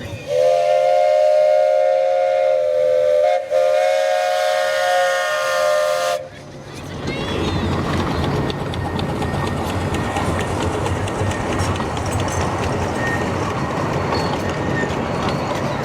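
Steam whistle on a 15-inch gauge steam locomotive, sounding a chord of several tones: a long blast, a brief break, then a second blast that cuts off about six seconds in. After it, the train runs on with a steady noise and rapid clicking.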